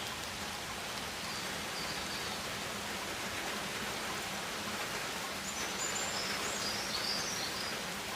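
Rainforest ambience: a steady hiss of rain or running water, with a few faint high bird chirps about two seconds in and again in the second half.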